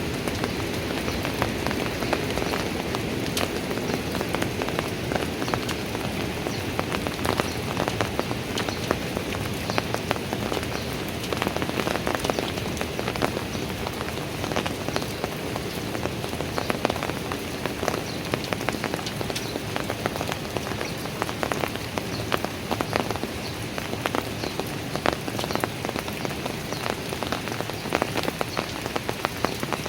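Steady rain falling on park stairs, a constant hiss of rainfall with many close drops splashing and ticking on hard surfaces.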